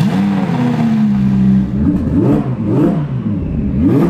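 Engine of a twin-turbo, 1000 bhp Audi R8 running loud. It holds one steady note for under two seconds, then is revved in a string of quick rises and falls.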